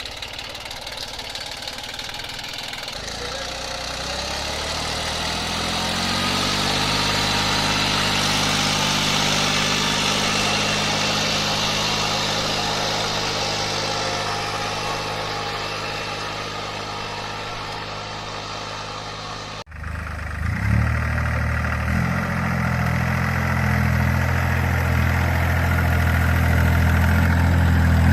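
Mini tractor engine running steadily, growing louder a few seconds in. A sudden break cuts it off about two-thirds of the way through, and another mini tractor engine follows, louder, running steadily.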